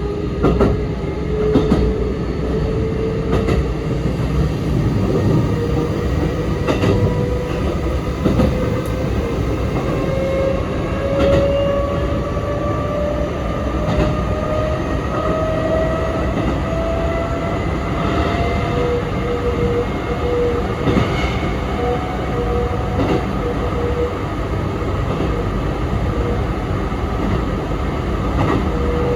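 Sanyo 3050 series electric train heard from inside the car while under way: the motor and gear whine rises slowly and steadily in pitch as the train gathers speed, then levels off and turns intermittent about two-thirds of the way through. Under it runs a constant running rumble, with the occasional click of wheels over rail joints.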